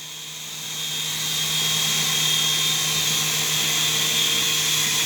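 Small indoor RC helicopter's electric motor and rotors running in flight, a high whine over a low steady hum that grows louder over the first second and a half, then holds steady.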